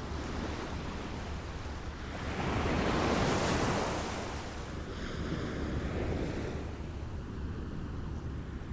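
Small waves lapping on a shore: a louder wash swells and fades about two to four seconds in, and a smaller one follows about a second later, over a steady low rumble.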